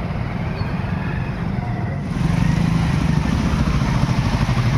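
Motorcycle engine running close by in street traffic, getting louder about two seconds in.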